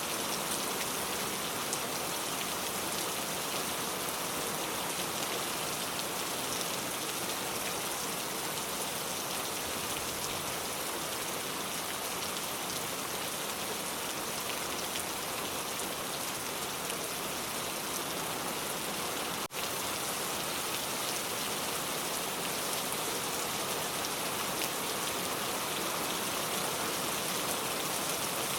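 Steady rain falling, an even hiss of drops with no change in strength, broken by one momentary drop-out about two-thirds of the way through.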